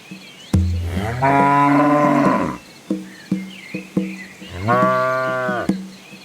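Cattle mooing twice: a long moo that starts low and rises, about half a second in, and a shorter moo near the end.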